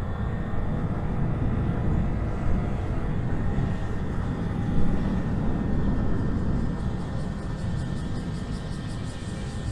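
A loud, fluctuating low rumble of outdoor noise, with faint steady tones above it and a faint fast ticking high up in the last few seconds.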